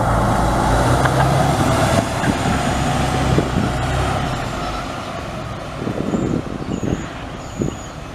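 Fire truck's diesel engine running heavily as the apparatus drives off, the low engine sound fading after about five seconds.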